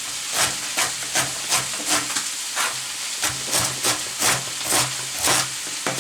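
Kitchen knife shredding cabbage finely on a cutting board: even, rhythmic crunching strokes about two to three a second, over a steady hiss.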